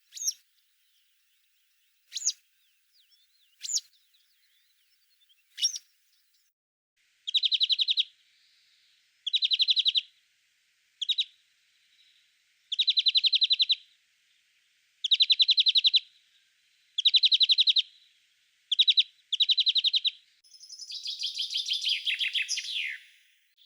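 Small songbirds singing: four short, sharp, high call notes about two seconds apart, then a series of rapid trills, each under a second long, and near the end a longer, more complex phrase falling in pitch.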